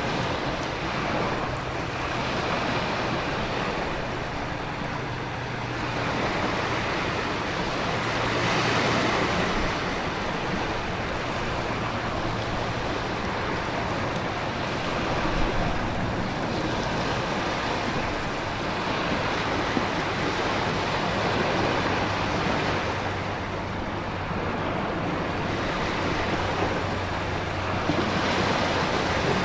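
Continuous ocean storm: waves surging and crashing with rain and wind, a dense rushing wash that swells and eases every several seconds.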